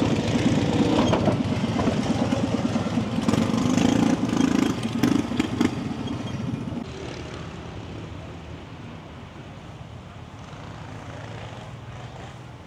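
A vehicle engine running close by, loud for about the first six seconds, then dropping away to a quieter steady rumble.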